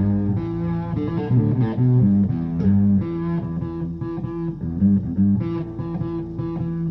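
Blues guitar playing a repeating riff over low bass notes, with no singing.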